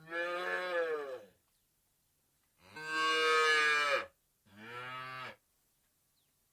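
A cow mooing three times: two long moos, the second the loudest, then a shorter one.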